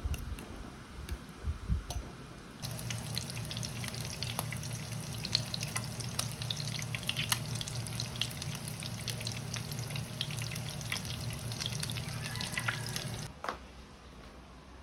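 Tap water running into a sink with splashing. It is turned on about three seconds in and shut off about a second before the end.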